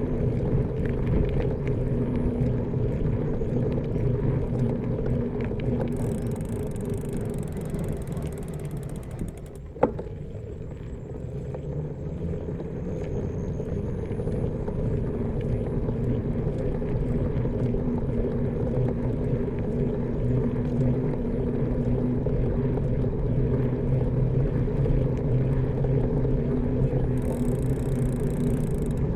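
Bicycle riding along a village road: a steady low rolling hum, with one sharp click or knock a little under ten seconds in, after which the sound briefly drops.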